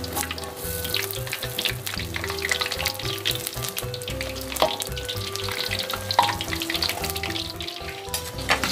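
Batter-coated mushrooms deep-frying in hot oil in a wok, with steady sizzling and crackling as they are turned with a metal spatula. The spatula knocks sharply against the wok twice, midway through and about a second and a half later.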